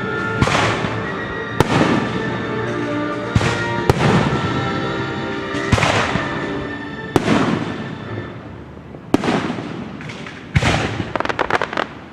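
Aerial fireworks exploding: sharp bangs every one to two seconds, with a quick run of crackling near the end, over orchestral music.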